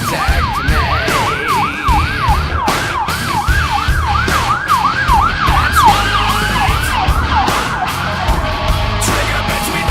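Fire truck's electronic siren on yelp, sweeping rapidly up and down about three times a second, fading out about seven seconds in as steadier tones take over. A steady low rumble runs underneath.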